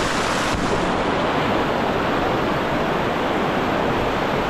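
Steady rush of river current flowing close by, an even hiss-like wash of water with no break.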